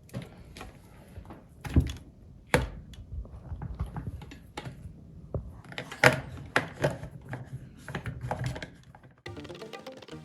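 Irregular clicks and knocks of the reverse osmosis filter parts being handled and fitted into place, the loudest about six seconds in. Music starts near the end.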